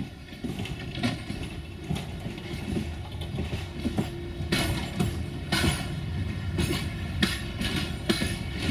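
Railway passenger coaches rolling slowly past, with a low rumble and wheels knocking over the rail joints about once a second, growing louder.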